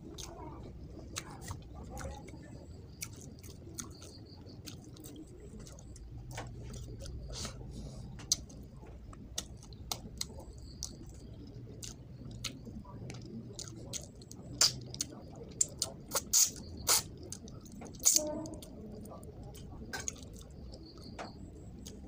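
Close, wet chewing and lip-smacking of a mouthful of rice and fish head eaten by hand, with many short sharp smacks and clicks. A run of the loudest smacks comes about two thirds of the way through.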